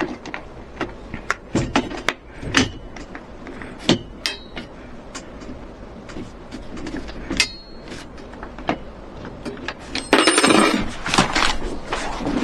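Scattered sharp clicks and light clinks, a couple with a brief ring, then a denser, louder clatter of handling about ten seconds in.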